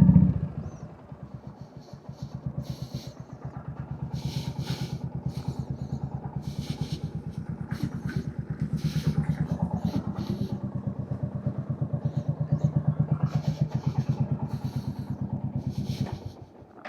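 Royal Enfield Hunter 350's single-cylinder engine settling down from a rev, then idling with an even, rapid thump. It is switched off near the end.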